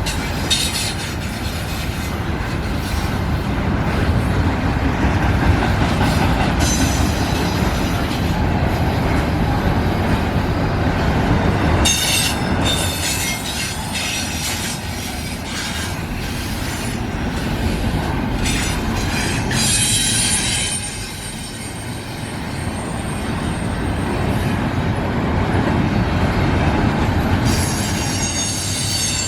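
Intermodal freight cars of a passing freight train rolling by with a steady rumble, the wheels squealing high-pitched several times.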